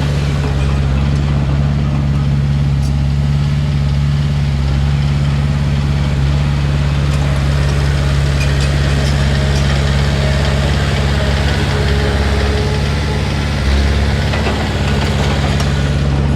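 Heavy diesel earthmoving machine's engine running steadily at a constant speed, with a short swell in the low rumble near the end.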